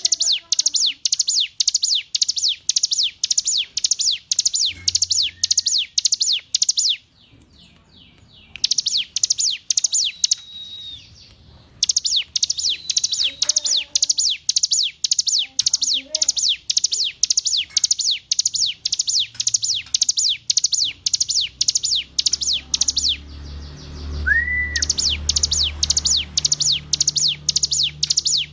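Ciblek gunung (a prinia) singing: a long, fast run of high, sharply falling chirps at about four a second, broken by a few short pauses.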